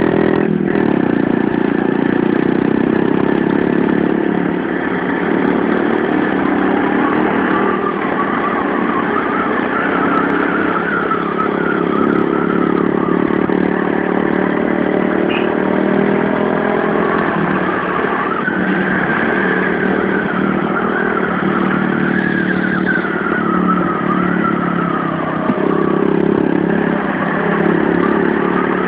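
Motorcycle engine running steadily under way, heard from on the moving bike, with its note wavering up and down in pitch through the bends.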